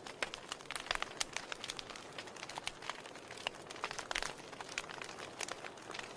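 Wood fire burning in a fireplace: irregular sharp crackles and pops, some louder than others, over a soft steady hiss.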